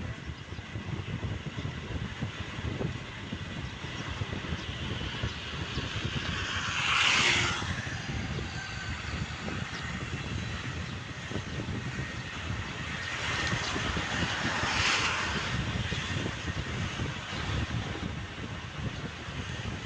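Motorbike riding along a road: a steady low engine and wind rumble, with two louder rushing swells, one about seven seconds in and another about fifteen seconds in.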